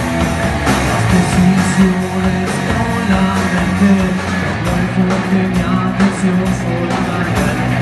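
Rock band playing live: guitar and drums in an instrumental passage.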